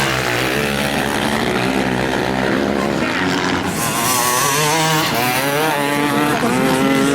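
Several motocross motorcycle engines running at once, their pitch rising and falling as riders work the throttle around the dirt track, a little louder from about four seconds in.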